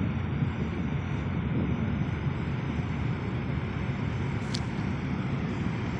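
Ship's engines running with a steady low rumble as the ferry pulls out of port.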